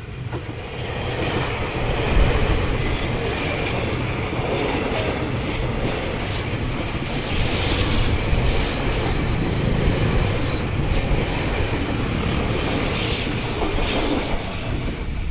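Ex-Toyo Rapid Railway 1000 series electric commuter train passing close by, its wheels clattering on the rails as the cars go past. The sound swells over the first two seconds, then holds loud and steady.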